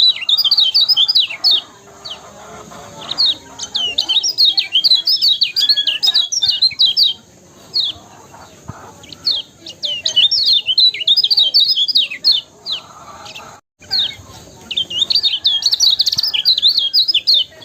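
Kecial kuning (a small yellow white-eye) singing: bursts of rapid, high chattering chirps a second or two long, repeated with short pauses, and all sound cutting out for an instant near the middle.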